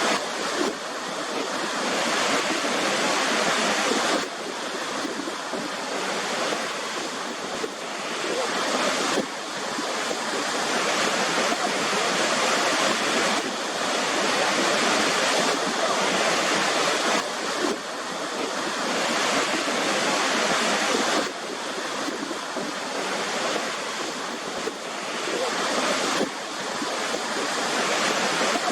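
Waterfall rushing steadily: a dense roar of falling water, with abrupt small shifts in level every four or five seconds.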